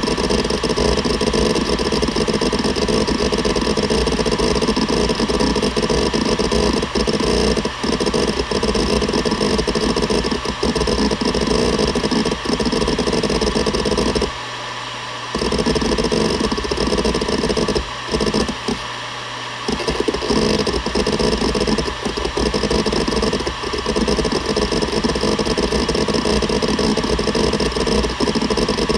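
Seagate Barracuda ES.2 ST31000340NS hard drive seeking continuously, its head actuator chattering rapidly over the steady hum of the 7200 rpm spindle. Twice, a little past halfway, the seeking stops for about a second and only the spindle hum is left.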